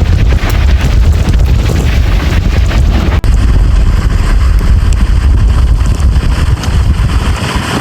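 Strong wind buffeting the microphone, a loud low rumbling roar, with an abrupt cut about three seconds in to more of the same wind noise.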